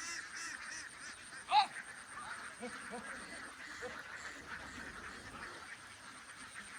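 Ducks quacking: one loud call about a second and a half in, followed by a few scattered softer quacks.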